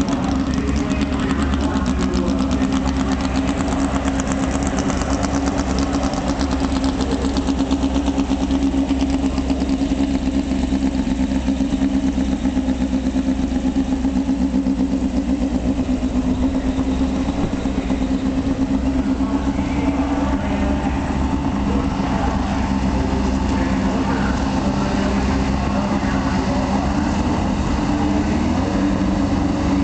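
VW Beetle drag car's engine idling steadily with a constant note, never revved up into a run.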